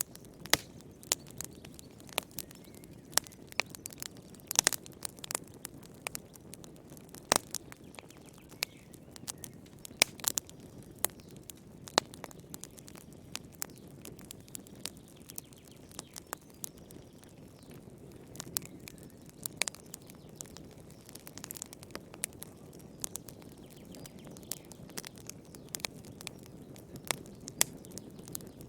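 Wood fire burning in a fireplace, with irregular sharp crackles and pops from the burning logs over a low, steady rumble of flame.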